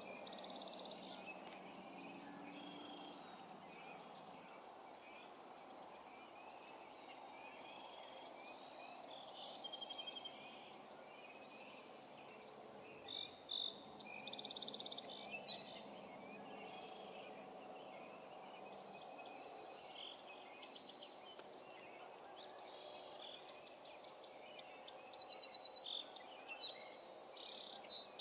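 Several birds calling, short chirps and trills over a steady low background hum. A louder run of rapid repeated notes comes near the end.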